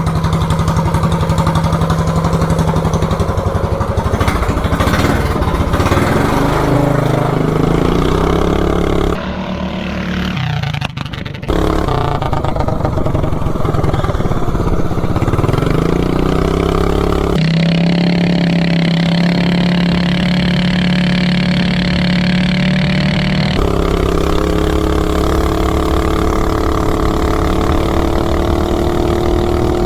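Minibike's Predator 420cc single-cylinder engine, ungoverned, running through a long header pipe, its revs rising and falling several times, with a few sudden jumps in the sound.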